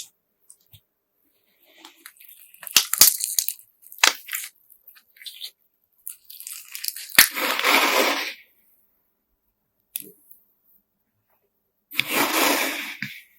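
Slime mixed with colored sand being pressed and squeezed by hand, giving crunchy, crackly sounds. A patter of crackles comes about three seconds in, then two longer crunchy squeezes, around seven seconds in and near the end.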